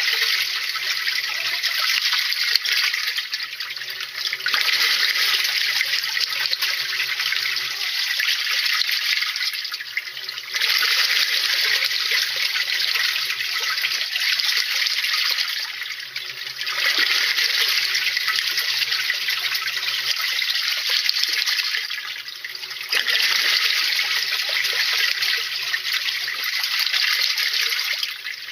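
Washing machine churning water in its drum during a cleaning cycle. The rushing water comes in surges of about five seconds, each followed by a brief lull, over a faint steady motor hum.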